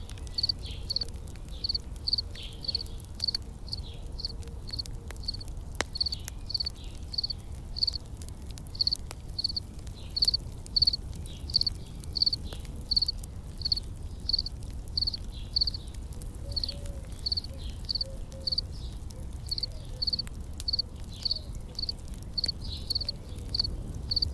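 An insect chirping in a steady rhythm, about two to three short high chirps a second, over a low rumble with scattered faint campfire crackles.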